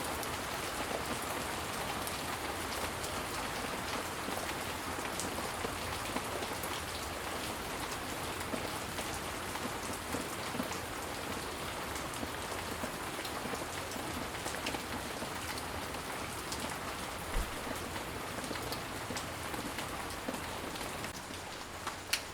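Steady rain falling, an even hiss of many drops with scattered sharper drips standing out, one louder tick near the end.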